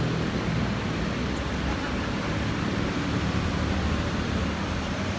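Jet noise from an Airbus A330-900's Rolls-Royce Trent 7000 turbofans as it climbs away after takeoff: a steady low rumble with a broad rushing hiss.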